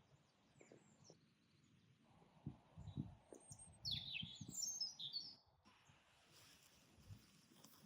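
Quiet garden birdsong: two clusters of short, quick falling chirps, the first about a third of the way in and the second just past halfway, over soft low rumbles.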